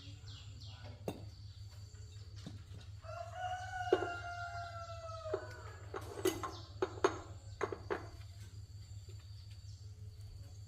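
A rooster crowing once, a single long call of a little over two seconds that falls slightly in pitch, with a few sharp clicks and knocks before and after it.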